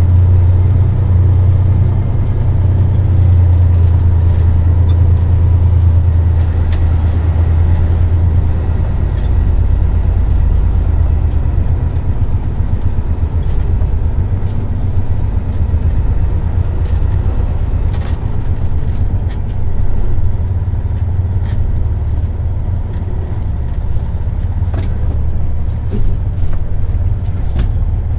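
Semi truck's diesel engine rumbling heavily, as if working under load, then easing to a lower steady rumble about eight or nine seconds in, with scattered clicks and rattles.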